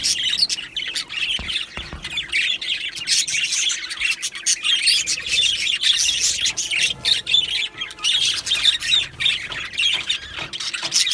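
Male budgerigars warbling and chattering without a break, a rapid stream of chirps, clicks and short squawks.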